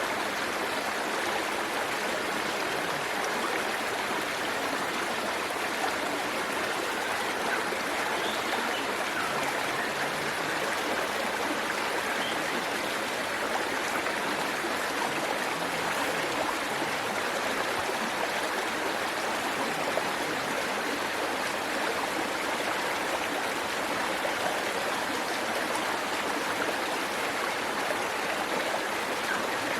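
Waterfall water rushing and splashing, a steady even hiss that does not change.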